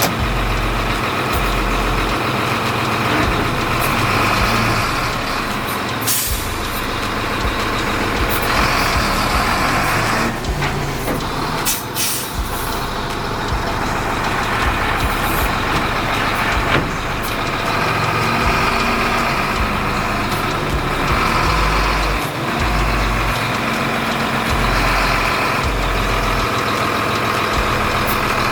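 Heavy diesel truck engine running, with a few sharp hisses of air about 6 and 12 seconds in.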